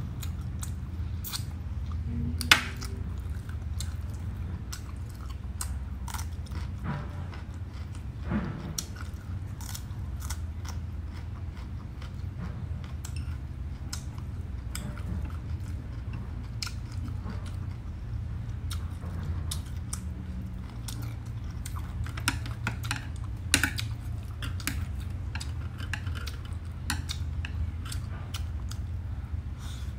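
Close-up chewing and crunching of crispy roast pork and winged beans, with many short crisp clicks of bites. A steady low hum runs underneath.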